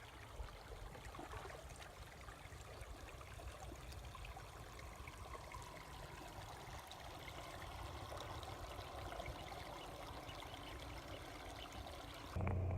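Faint, steady trickle of water flowing through a natural hot spring pool.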